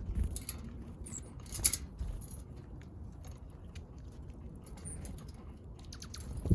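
Small backyard birds pecking at seed, giving scattered sharp taps and clicks, with a couple of brief high chirps. A dull thump comes at the very end.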